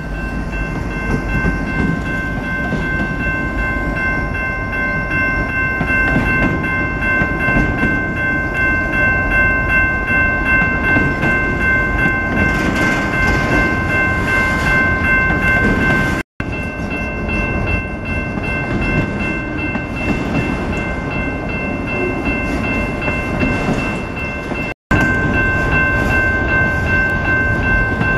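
Freight train rolling past close by: a steady, loud rumble of wheels on rail with a steady high-pitched ringing tone held over it. The sound breaks off briefly twice.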